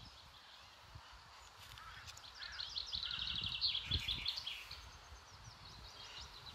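A songbird singing a fast trill of rapidly repeated high notes for about two seconds, starting about two seconds in. A soft low knock of handling on the phone comes near the middle.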